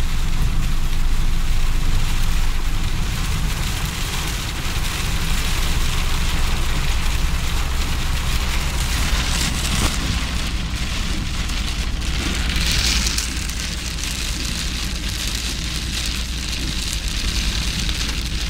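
Heavy rain falling on a moving car's roof and windshield, heard from inside the cabin, over a steady low rumble of the car and its tyres on the wet road.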